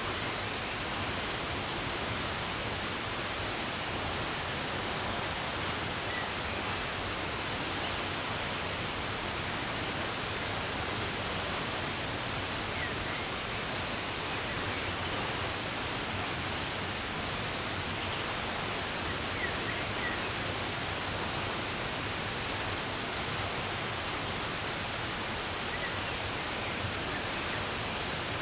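Running water flowing steadily, with a few faint, brief bird chirps scattered through it.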